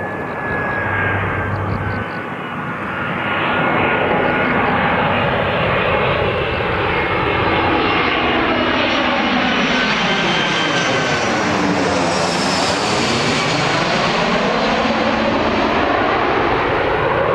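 Airbus A319 jet airliner on landing approach passing close by, its engines giving a steady loud roar with a whine that slowly falls in pitch. The sound swells a few seconds in and peaks as the plane goes by about two-thirds of the way through.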